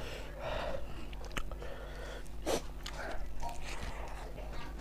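Close-miked eating sounds: a man chewing mouthfuls of pulao rice that he eats by hand, with wet mouth clicks and smacks. One louder, sharper mouth sound comes about halfway through.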